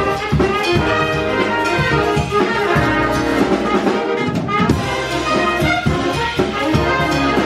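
A big band jazz ensemble playing live, its brass section of trumpets and trombones sounding together over drum hits.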